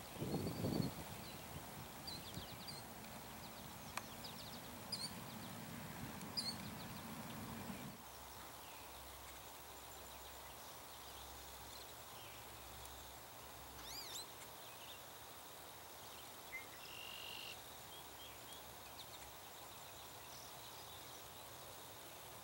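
Small songbirds giving scattered short, high chirps and whistles, one sweeping whistle about fourteen seconds in, over faint background noise. A low rumble underlies the first eight seconds and then stops.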